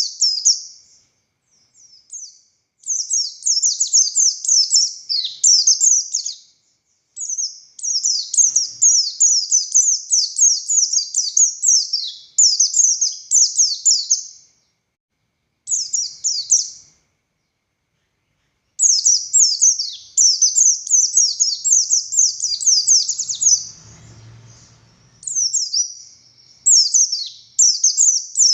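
A pleci buxtoni white-eye singing a fast, high-pitched twittering song. It comes in long unbroken runs of several seconds, separated by brief pauses.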